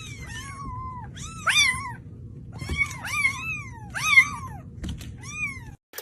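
A cat meowing over and over, a string of high, rising-and-falling meows with short pauses between them.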